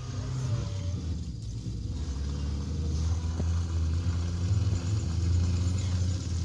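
Engine of a Suzuki Katana 4x4 running on a dirt track: a low, steady rumble that grows gradually louder as the vehicle comes closer.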